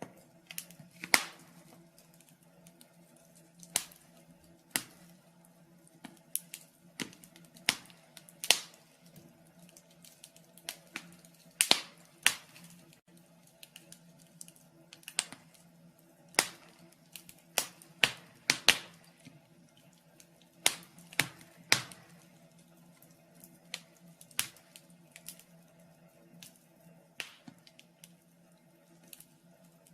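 Wood fire in a fireplace crackling, with irregular sharp pops of varying loudness, several of them louder than the rest. A faint steady hum runs underneath.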